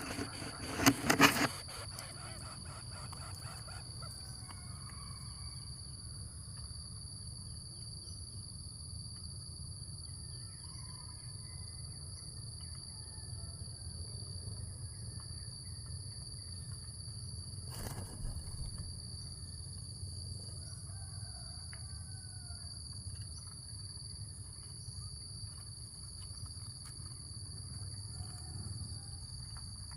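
Insects buzzing in a steady, high-pitched drone over a low outdoor rumble, with faint bird calls now and then. A brief loud burst of noise about a second in and a single sharp click near the middle.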